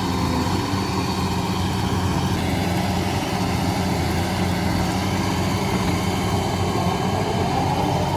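Heavy machine's diesel engine running steadily at a constant speed.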